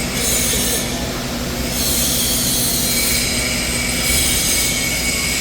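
Steady mechanical noise with several high, unbroken whining tones over a low rumble.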